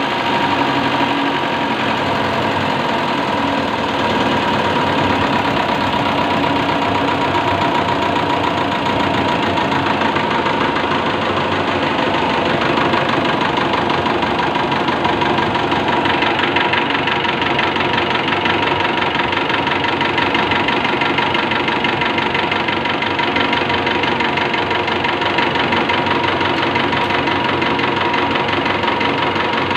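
CAV rotary diesel fuel-injection pump running on a calibration test bench: a steady, rapid mechanical clatter with a constant whine.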